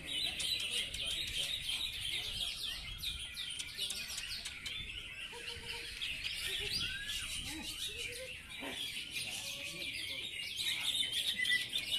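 Many caged songbirds chirping and singing at once, making a dense, unbroken chorus of overlapping high chirps.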